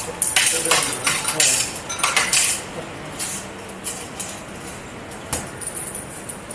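Coins clinking against metal at a ticket vending machine: a quick run of clinks in the first two and a half seconds, then a few scattered ones.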